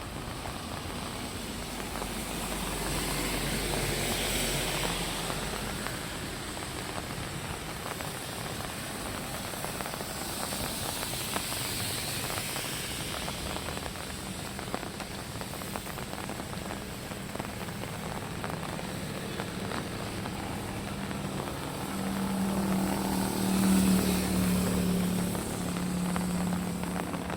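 Steady rain falling, with vehicles swishing past on a wet road about three times. Near the end an engine passes close, its low hum the loudest sound.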